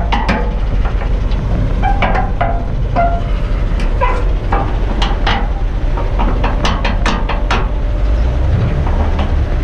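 A heavy truck's diesel engine running steadily, with irregular metallic clanks and rattles over it.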